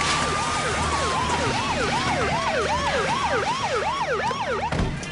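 Police car sirens. One wails in a slow falling sweep while another yelps in quick rising-and-falling cycles, about three a second, with a brief break near the end.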